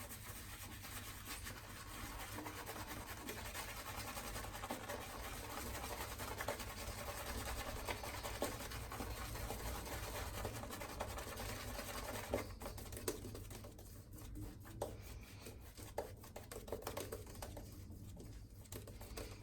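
Shaving brush swirling shaving cream into a lather, a soft, continuous bristly scratching. About two-thirds of the way through it grows lighter and more broken, with a few small clicks.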